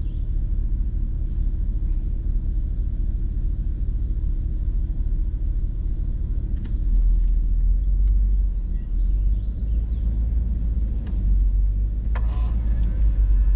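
Hummer H2's V8 engine and drivetrain rumbling at crawling speed, heard from inside the cab on a rough trail. The rumble swells about seven seconds in and again near the end, with a few light knocks.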